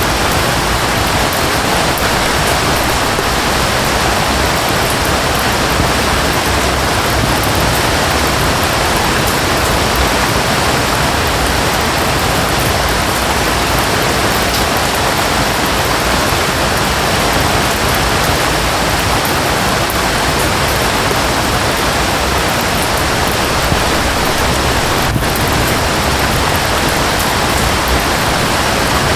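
Steady, dense rush of falling water and rain, an even hiss with a fine patter of drops in the highs.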